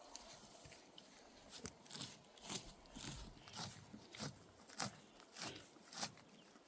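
A bulldog breathing noisily in a steady rhythm, about nine short rasping breaths, roughly one every half second, starting about a second and a half in.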